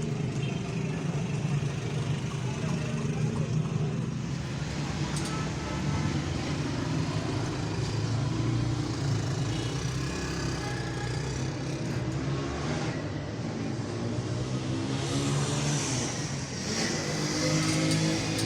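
A motor vehicle engine running steadily, its pitch rising and falling, with the sharpest rise about two-thirds of the way in.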